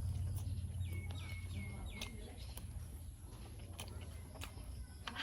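A bird calling four quick notes in a row about a second in, each note dropping in pitch and then levelling off. Under it is a steady low hum, with a few faint clicks.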